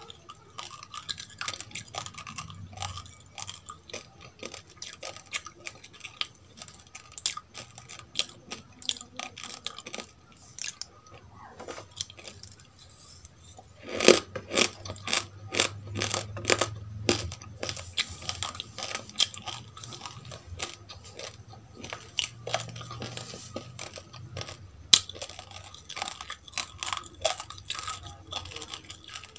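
Close-up crunching and chewing of dry roasted rice grains: dense, irregular crisp crackles that grow louder and denser about halfway through. One sharp click stands out near the end.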